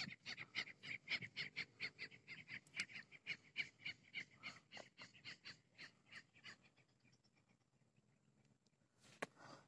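A bird calling faintly in a rapid series of short notes, about six a second, fading out about six seconds in; a single click near the end.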